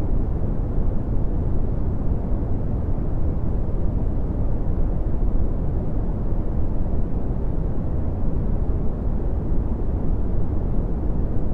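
Steady red (Brownian) noise: a deep, even rumbling hiss, loudest in the bass and falling away toward the treble.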